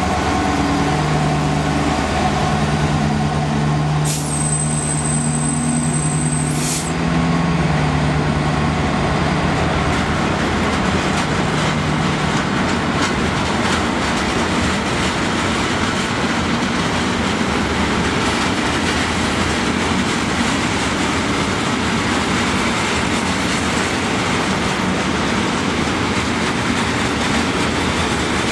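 EMD Class 66 diesel locomotive's two-stroke V12 pulling a freight train away, its engine note shifting in pitch over the first dozen seconds and then giving way to the steady rolling noise of the wagons going by. A high thin squeal sounds for about two and a half seconds, about four seconds in.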